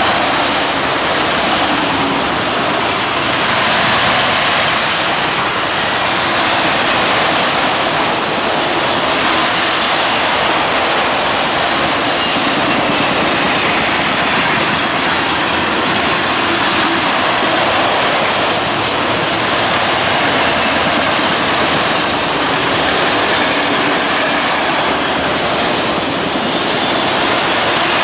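Railroad cars rolling past: a steady, loud noise of steel wheels on rail that continues unbroken throughout.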